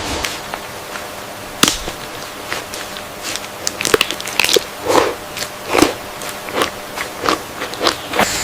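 Irregular crunching and snapping, a dozen or so sharp cracks spread unevenly over several seconds, a few of them fuller and heavier.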